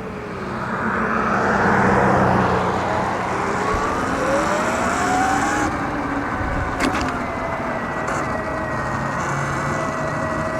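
Electric dirt bike's motor whining and rising in pitch as the bike speeds up, then holding a steady whine, over wind and road noise. A broad swell of road noise peaks about two seconds in, and a single sharp click comes near seven seconds.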